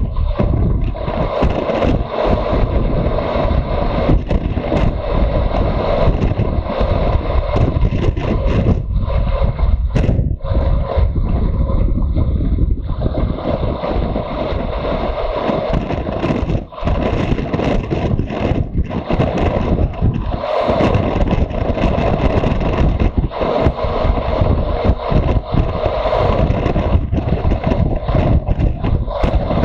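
Motorcycle riding along: the engine runs steadily under heavy wind buffeting on the microphone, its pitch swelling and easing with the throttle.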